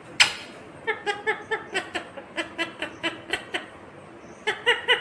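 Indian ringneck parrot calling: one sharp, loud squawk, then a rapid series of short pitched notes, about four a second, and three more quick notes near the end.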